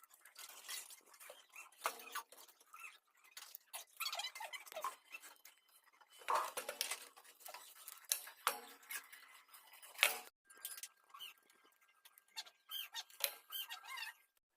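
Irregular clicks, scrapes and small squeaks of hand work on ceiling fan parts with small tools, with a faint steady tone under it for a few seconds after the middle.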